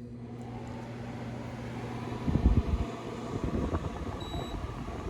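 Dehumidifier running, its fan giving a steady whoosh over a low hum that stops about three seconds in. A few low thumps come just before that, around two and a half seconds in.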